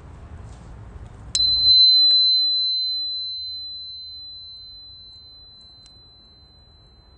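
A small metal meditation chime is struck once about a second in and rings a single clear high tone that slowly fades away. Under it, faint crackling from a wood fire stops soon after the strike.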